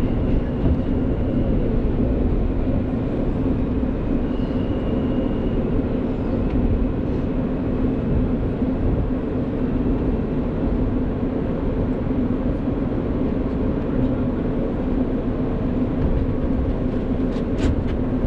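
Steady rumble and hum inside an F train subway car, with no clear change over the few seconds.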